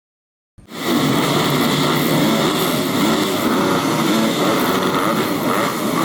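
Motocross bike engines running hard together, several at once with their pitches wavering as they rev. The sound cuts in abruptly about half a second in.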